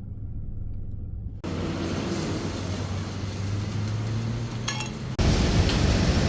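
Steady low rumble and background noise of a railway setting, changing abruptly in level twice, with a light clink a little after halfway through.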